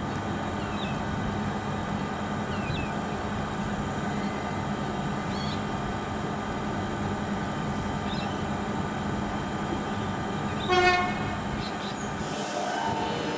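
Steady vehicle rumble with a short horn toot about eleven seconds in, and faint bird chirps early on.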